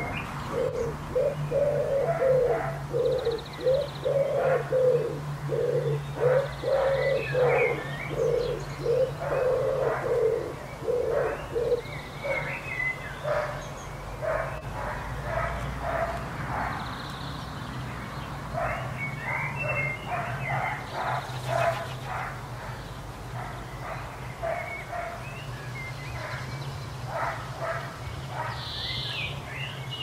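Birds calling in the early morning: a low note repeated about twice a second for the first dozen seconds, and higher chirps scattered throughout, over a steady low hum.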